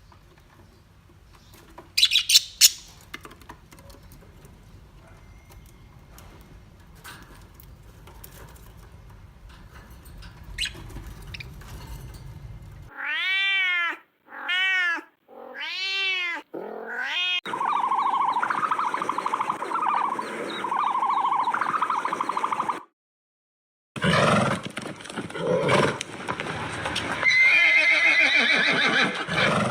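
A string of separate animal recordings cut together. A quiet stretch with a few sharp clicks leads to three short rising-then-falling cat meows about halfway through, followed by other animal calls, with an abrupt cut to silence between clips.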